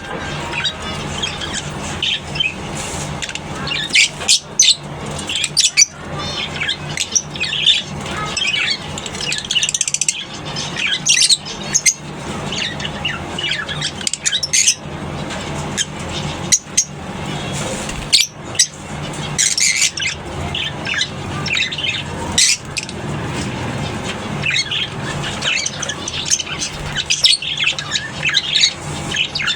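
A colony of lovebirds chattering: many short, shrill chirps and squawks overlapping without a break.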